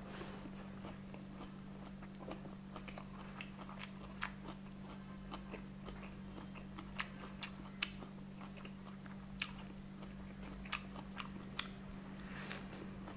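Close-miked chewing of a lettuce wrap with crispy fried chicken: wet chewing broken by sharp, irregular crunches, a few louder than the rest. A steady low hum runs underneath.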